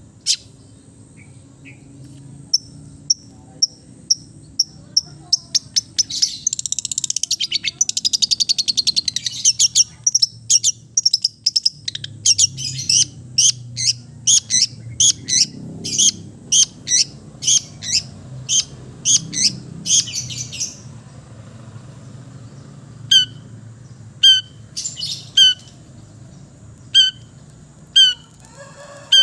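Long-tailed shrike (cendet) singing: a short series of high notes, then a fast chattering trill, then a long run of harsh repeated notes about one or two a second, thinning to sparse single calls near the end.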